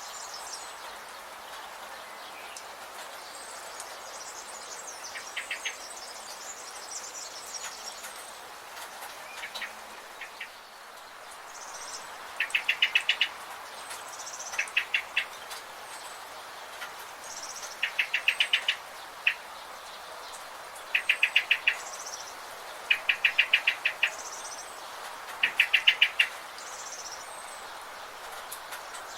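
Forest birds calling over a steady insect hiss. From about twelve seconds in, one bird repeats a short burst of rapid chirps every two to three seconds, with higher, thinner calls around it.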